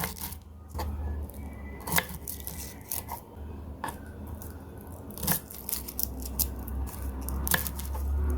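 Kitchen food-prep handling sounds: irregular clicks, taps and scrapes of utensils and food being worked, about one sharp tap every second or so, over a steady low hum.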